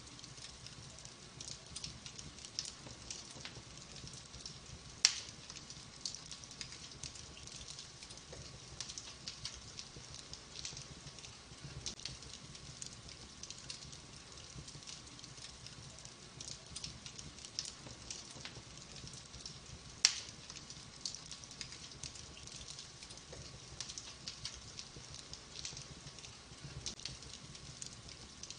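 Wood fire burning in a fireplace: logs crackling steadily, with two sharp louder pops about five seconds in and again near twenty seconds. A faint steady hum runs underneath.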